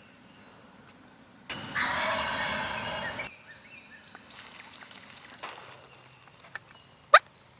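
A wild turkey gobbler gobbles once, a loud rattling gobble lasting nearly two seconds. Near the end comes a single short, sharp call note.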